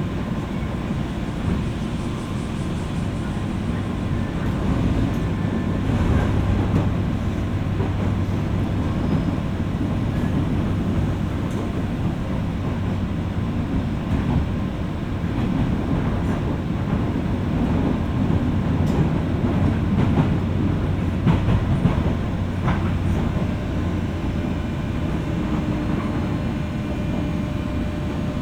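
Running noise inside a JR West 201 series electric train's motor car, recorded over its armature chopper: a steady rumble of wheels and traction motors with a low hum and occasional rail-joint clicks. A faint higher whine comes in near the end as the train nears the station.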